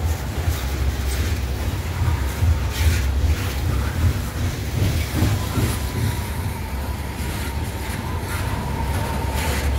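Open-top coal hopper cars of a CSX freight train rolling past at close range: a steady low rumble with scattered clacks of wheels over rail joints. A faint, thin, steady squeal comes in during the second half.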